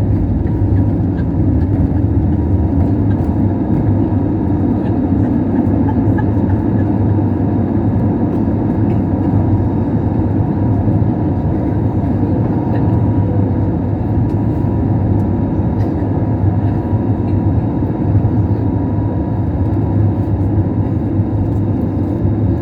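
Airbus A320neo cabin noise in flight after takeoff: a steady, loud rumble of engine and airflow with a faint constant hum over it.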